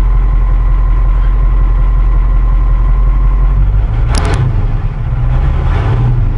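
Caterpillar 3208 V8 diesel in a dump truck idling steadily, running without its muffler; its note changes about three and a half seconds in, and a brief loud burst of noise cuts across it about four seconds in.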